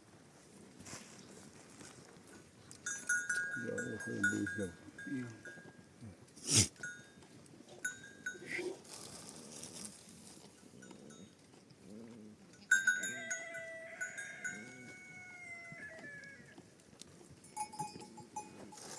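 Bells on a flock of sheep and goats clinking and ringing, with animals bleating now and then. There is one sharp knock about six and a half seconds in.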